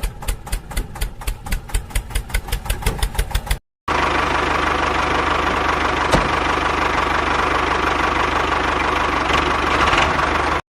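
A small engine on a homemade miniature machine, first knocking over in an even beat of about six strokes a second. After a sudden break it runs steady and louder to the end.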